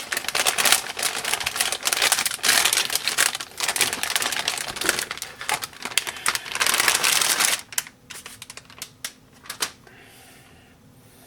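Plastic anti-static bag crinkling and rustling as a graphics card is handled and pulled out of it. It is dense and continuous for about seven seconds, then trails off into a few scattered crackles.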